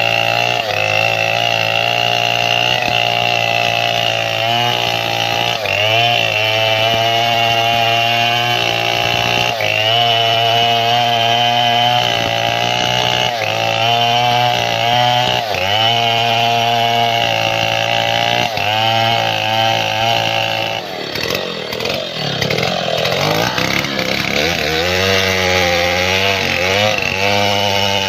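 Stihl 070 chainsaw, a big single-cylinder two-stroke, running hard while felling mahogany. Every couple of seconds its pitch sags and recovers as the chain bites into the wood. About three quarters of the way through, the engine note drops lower and wavers for a few seconds before steadying again.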